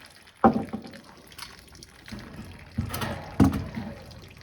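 Sharp knocks with a short ring, one about half a second in and two near the three-second mark, over faint liquid sloshing and trickling, from work on the fittings of a drained gas water heater.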